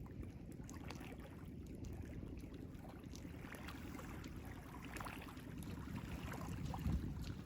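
Ocean waves washing at the shore: a low, steady rush of water with faint fizzing and crackling as the water drains back, swelling slightly in the middle.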